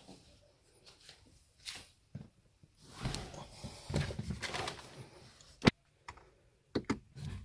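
Rustling handling noises with several sharp clicks, one loud click a little past the middle and a quick cluster of clicks near the end.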